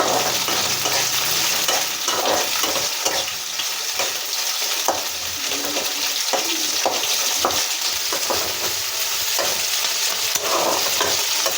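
Chopped onions frying in hot oil in a kadai, sizzling steadily, while a spatula stirs and scrapes the pan with frequent short clicks and scrapes.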